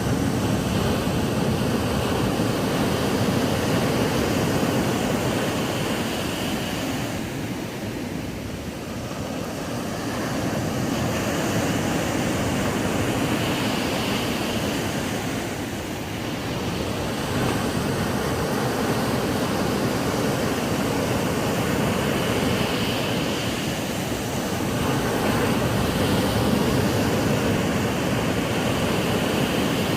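Ocean surf: waves breaking and washing up a beach in a continuous rush of water, swelling and easing every several seconds.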